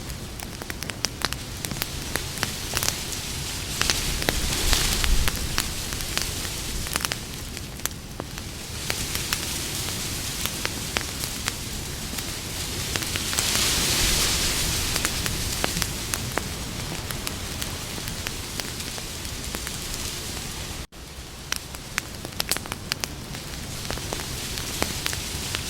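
Wood campfire crackling: a steady hiss of burning, dotted all through with sharp pops and snaps. The hiss swells for a few seconds near the middle, and the sound cuts out for an instant about two-thirds of the way through.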